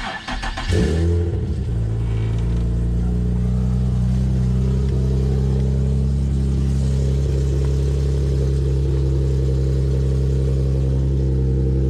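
Infiniti G35's 3.5-litre V6 starting: a brief crank and catch in the first second, then idling steadily. The owner can still hear a slight exhaust leak at the newly bolted joint.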